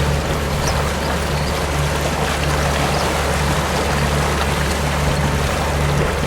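Boat under way: water rushing along the hull, with a steady low engine drone beneath it.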